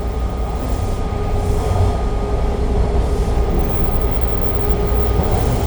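Toronto subway train running between stations, heard from inside the car: a steady rumble of wheels on track with a steady whine.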